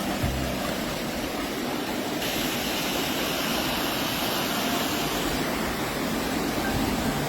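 Waterfall: a steady rush of falling water that turns brighter and hissier about two seconds in.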